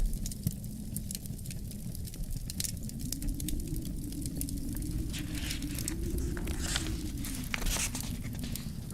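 Wood fire crackling with frequent sharp pops, busiest about five to eight seconds in, over a low wind rumble whose howl rises and falls slowly.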